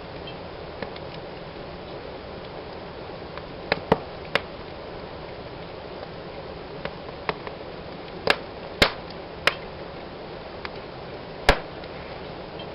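Wood fire burning in a fireplace: a steady hiss with about seven sharp crackling pops scattered through, the loudest near the middle and near the end.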